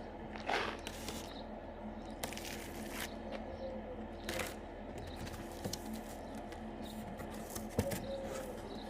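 Scattered rustles, scrapes and light knocks of packaging and plastic parts being handled while the vacuum cleaner is unboxed, over a faint steady hum.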